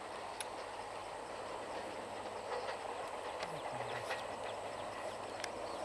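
Passenger train's ICF coaches receding along a curved track: a steady rumble of wheels on rail, with scattered sharp clicks.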